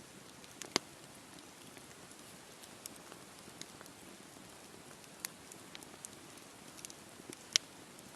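Wood campfire burning: a soft steady hiss with scattered sharp crackles and pops, the loudest about a second in and another near the end.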